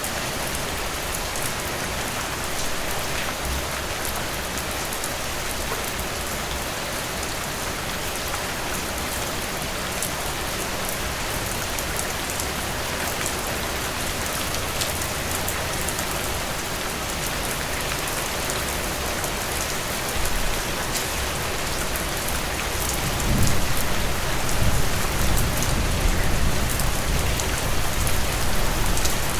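Heavy rain pouring steadily, a dense hiss with fine drops pattering on a surface. About three-quarters of the way in, a low rumble of distant thunder swells up and stays under the rain.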